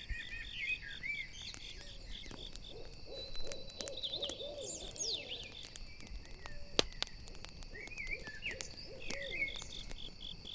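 An owl hooting in two quick runs of short low notes, over crickets chirping in a steady pulse and other small bird chirps. Campfire crackling pops throughout, with one louder pop about seven seconds in.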